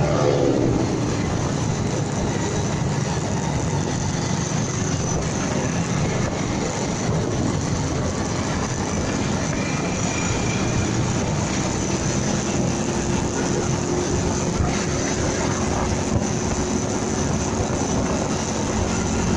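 Motorcycle riding, with engine noise and steady wind rush on the microphone; the engine pitch falls in the first second, and a faint steady drone comes in about two-thirds of the way through.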